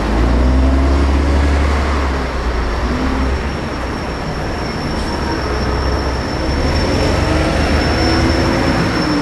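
Deep, loud rumble of a large vehicle running close by, with faint whining motor tones that rise and fall.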